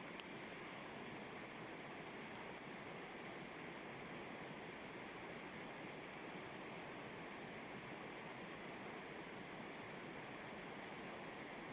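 Steady, even rush of water over a river rapid, unchanging throughout, with a single faint click shortly after the start.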